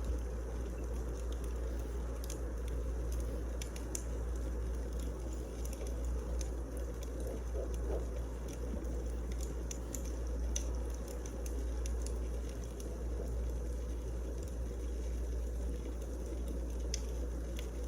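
Wood fire burning in a fireplace: a steady low rush with many small crackles and snaps scattered irregularly throughout.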